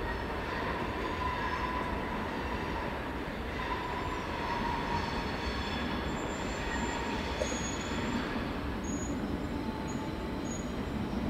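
Double-deck SBB passenger train behind a Re 460 electric locomotive rolling slowly over the points of a station track field: a steady rail rumble with faint, on-and-off wheel squeal.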